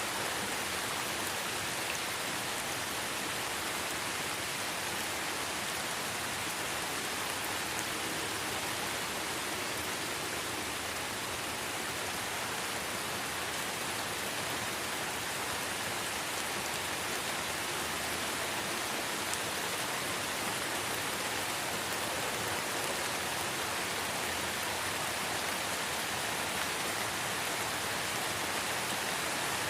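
Light rain falling in a forest, a steady, even hiss and patter with no single drops or other sounds standing out.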